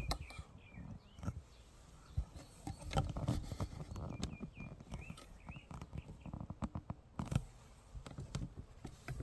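Outdoor ambience with short, hooked bird chirps in small runs near the start and again about four seconds in, over irregular low thumps and rustling.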